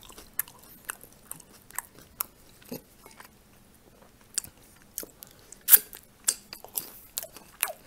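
Close-miked chewing and lip-smacking of a person eating pan-fried pelmeni dumplings: scattered short wet clicks and smacks, with a louder smack about two-thirds of the way through.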